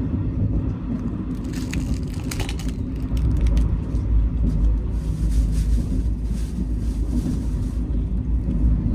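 Steady low rumble of a moving sleeper train heard from inside the carriage, growing heavier about three seconds in. Between about one and three seconds in, a short crackling as a seaweed-wrapped rice ball is bitten into.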